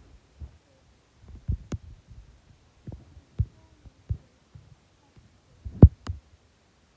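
Irregular low thumps and knocks, a few with a sharp click, the loudest about six seconds in.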